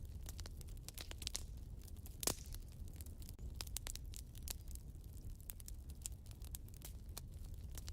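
Fire in a fireplace crackling: irregular pops and snaps over a low steady rumble, with one louder pop about two seconds in.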